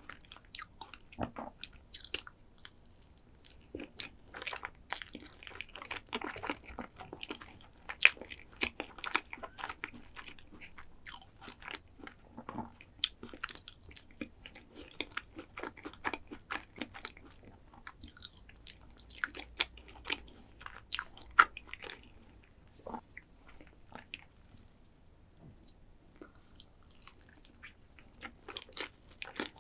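Close-miked eating of chocolate desserts: steady chewing with irregular sharp crunches, the two loudest about eight seconds in and just past twenty seconds, and a brief lull near the end.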